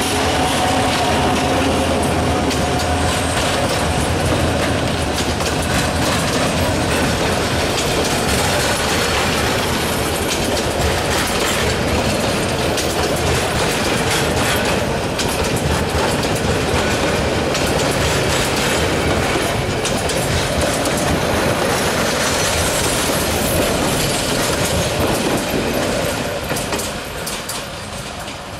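Passenger train coaches rolling past close by, their wheels clattering rhythmically over the rail joints. The sound fades near the end as the last coach moves away.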